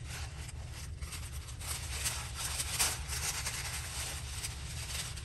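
Paper rustling and crinkling as it is handled, rising and falling unevenly, over a steady low hum.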